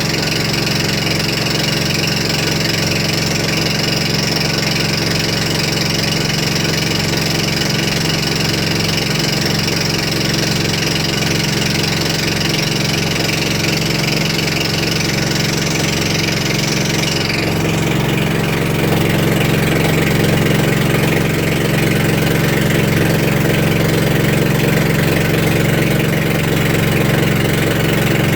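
Boat engine running steadily. About two-thirds of the way through, a high whine drops out and the engine gets slightly louder.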